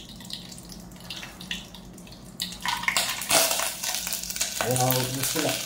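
Whole spices frying in hot butter and oil in a steel pot, with a loud sizzle that starts about two and a half seconds in. Before that only a faint steady hum, and a brief voice near the end.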